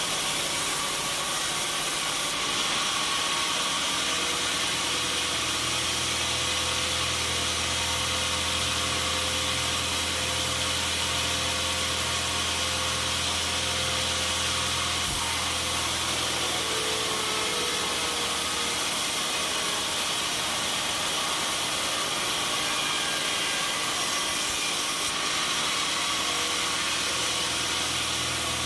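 Sawmill machinery running steadily: an even mechanical noise with a low hum underneath. The hum drops out about two-thirds of the way through and comes back near the end.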